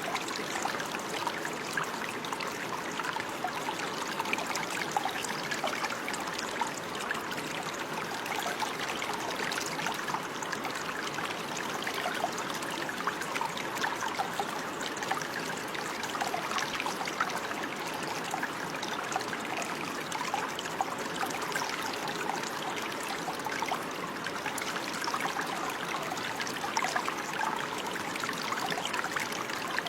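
Running water: a small stream trickling and bubbling steadily, with many small splashes and gurgles and no pauses.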